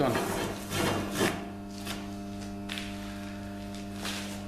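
Steady electrical hum, like mains hum, with a few faint handling sounds in the first second or so.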